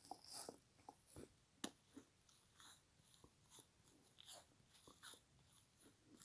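Faint chewing of a mouthful of frozen foam kitchen sponge: irregular soft crunches and crackles, with one sharper click about a second and a half in.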